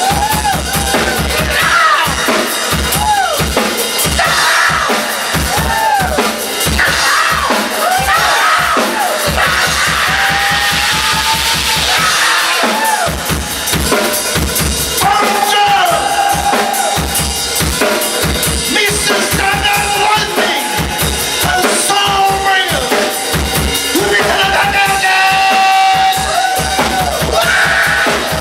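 Live rock band playing an instrumental passage. An electric guitar lead plays string bends and long held notes over a steady drum kit and bass.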